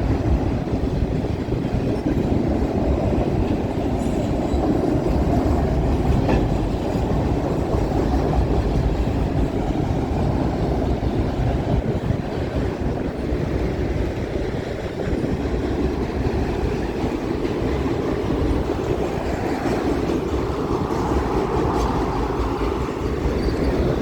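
Freight cars of a long CN freight train rolling past close by: a steady rumble of steel wheels on the rails with some clacking over the rail joints.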